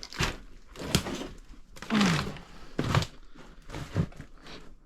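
Footsteps and shuffling over a cluttered floor, about one step a second, with a short falling creak about two seconds in.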